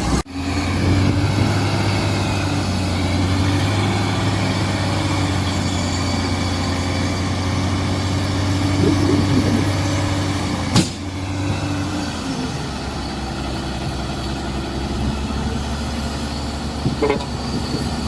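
Diesel engine of heavy earthmoving machinery running steadily. There is a sharp click a little before 11 seconds, the engine note drops lower at about 12 seconds, and short high squeaks come near the end.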